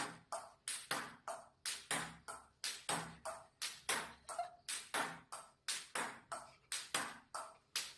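A steady run of short, sharp pinging strikes, about three a second, each ringing briefly before the next.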